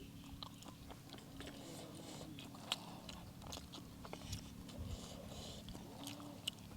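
A person chewing and biting into mouthfuls of spicy stir-fried seafood instant noodles close to the microphone, with many small crunches and clicks. One sharp click comes about two and a half seconds in.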